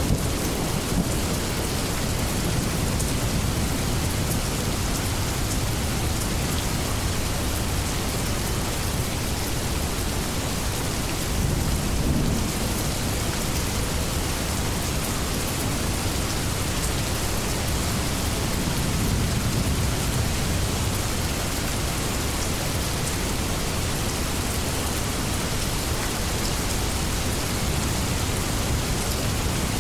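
Steady heavy rain falling, with a low rolling rumble of distant thunder beneath it that swells briefly a little over a third of the way in.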